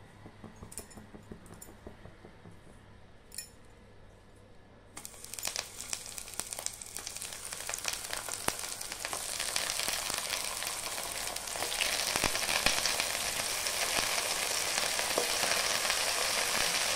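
Halved tomatoes going into hot mustard oil in an iron kadhai, frying with a crackling sizzle. The sizzle starts about five seconds in and grows louder as more halves are added.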